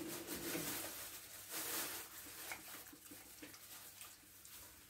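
Faint eating sounds at a table: chewing, with a few small clicks from handling food and utensils.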